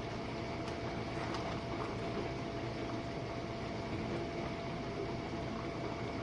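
Jenn-Air dishwasher running its Quick Wash cycle: a steady whoosh of water spraying inside the tub over a constant hum.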